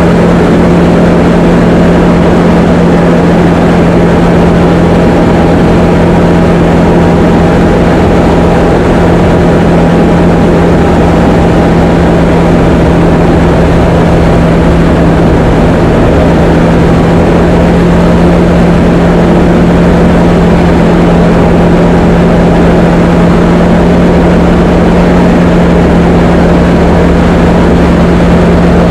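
Diamond DA20 light aircraft's piston engine and propeller droning steadily, a loud constant hum with no change in pitch.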